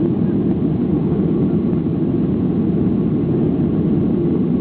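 Steady low roar inside the cabin of a Boeing 737-800 during takeoff: its CFM56-7B jet engines running at high thrust, with airflow noise over the fuselage.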